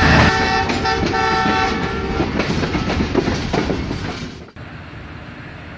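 Train horn sounding for about two seconds over the noise of a running train. The train noise carries on until it cuts off abruptly about four and a half seconds in, leaving a quieter steady rumble.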